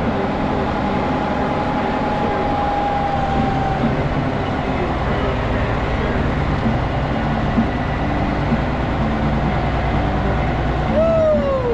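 Heavy winch truck's engine running steadily. A faint whine slowly falls in pitch over the first few seconds, and a few short rising-and-falling whines come near the end.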